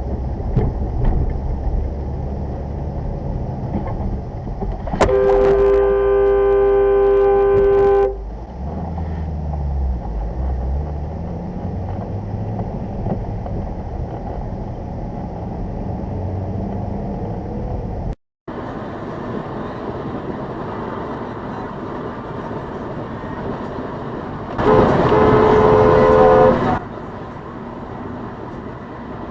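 A two-note car horn sounds in a long blast of about three seconds, then again for about two seconds near the end, over steady road and engine noise.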